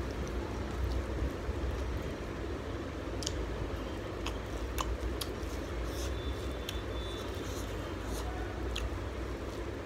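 Close-up eating sounds: chewing a mouthful of rice and prawn curry, with scattered short, sharp wet mouth clicks at irregular intervals, over a steady low hum.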